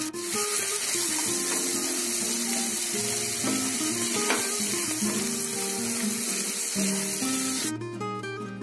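Mashed potato and spices frying in oil in a nonstick pan, a steady sizzle as they are stirred with a wooden spatula, with a few light spatula taps. Background music runs underneath; the sizzle drops away near the end.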